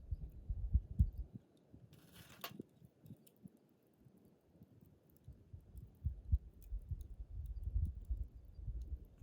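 Wood campfire in a fire stand, burning down late in the fire, with faint scattered crackles and ticks. Irregular low thuds come and go, quieter for a few seconds near the start, and a brief hiss comes about two seconds in.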